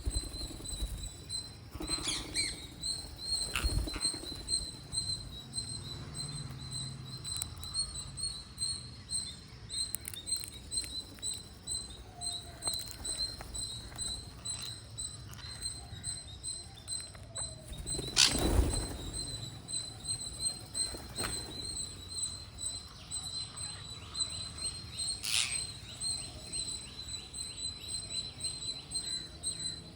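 Green parrots eating: a steady run of small nibbling and cracking clicks from their beaks on the food, with a few louder knocks, the loudest about eighteen seconds in. A steady high pulsing tone runs underneath throughout.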